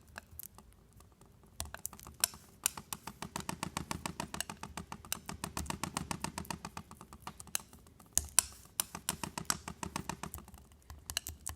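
Palette knife mixing paint on a palette, a quick run of clicking taps and scrapes, about four or five a second, as white is worked into a green mixture.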